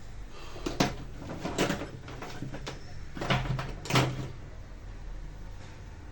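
Four separate knocks and clunks of hard parts being handled and set down, the loudest near the start and about four seconds in, over a steady low hum.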